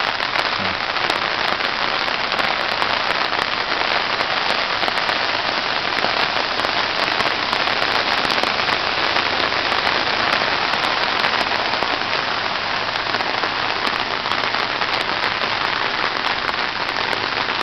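Steady heavy rain falling on a flooded driveway and road, an even hiss dotted with many small ticks of drops.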